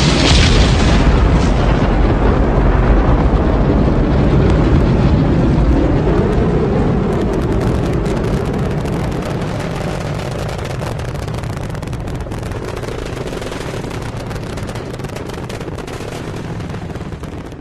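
Space Shuttle launch heard from the ground: a deep, loud rumble with crackling, slowly fading as the vehicle climbs away.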